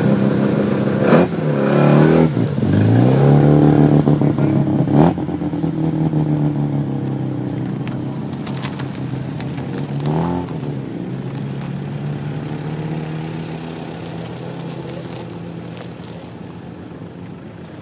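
Car engines moving off: a steady engine note, then revving whose pitch dips and climbs between about one and five seconds in, with a sharp knock at about five seconds, a shorter rev around ten seconds in, and the sound gradually fading away.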